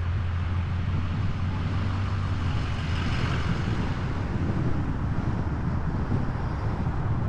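Steady vehicle and traffic noise with wind on the microphone: a low drone that eases off about two and a half seconds in, under a constant hiss.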